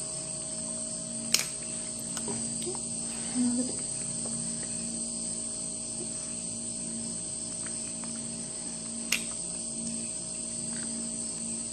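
Steady high-pitched drone over a low hum, with two sharp clicks about a second and a half in and near the end.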